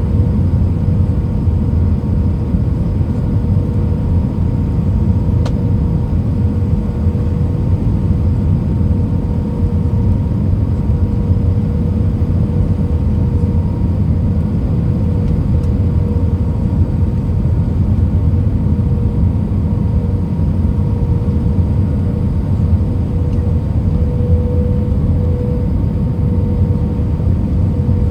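Jet airliner cabin noise in flight: a steady rumble of airflow and engines, with a constant hum running through it.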